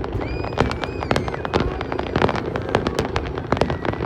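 Fireworks crackling: a dense, rapid run of sharp pops over a low, steady rumble. A thin, high wavering tone sounds briefly in the first second and a half.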